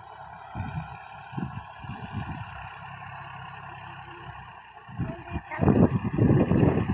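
Tractor diesel engine running. Its low rumble turns much louder and rougher about five seconds in.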